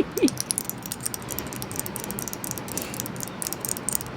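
Seashells being tapped and clicking against each other: rapid, irregular light taps that come thickest near the end.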